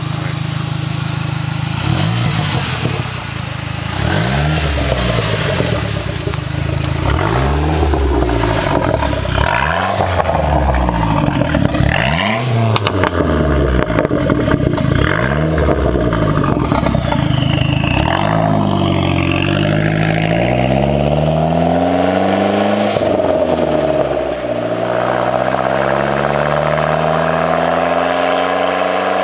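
Dodge SRT-4's turbocharged 2.4-litre four-cylinder through a 3-inch catted Modern Performance exhaust, revved in a run of quick blips about every second and a half. Near the end it gives two longer, slower climbs in revs.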